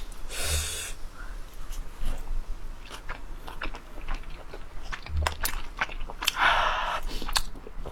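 A person chewing abalone dipped in wasabi close to the microphone: wet mouth clicks and smacks throughout, with two short breathy rushes, one about half a second in and one near the end.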